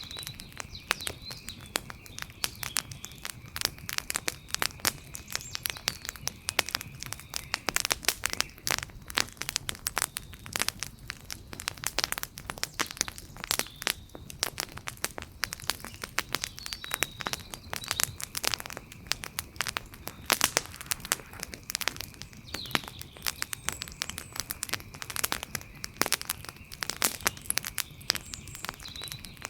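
Wood fire crackling, with dense irregular sharp snaps over a low hiss.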